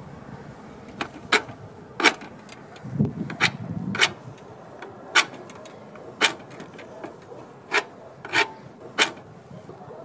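A knife cutting and scraping along a cardboard toy-plane wing in short, unevenly spaced strokes, with a denser patch of rubbing about three to four seconds in.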